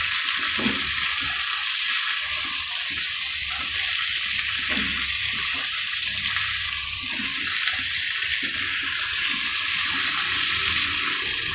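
Minced meat and potato cubes sizzling steadily in oil in a nonstick frying pan, with the scraping of a slotted spatula as they are stirred and mixed.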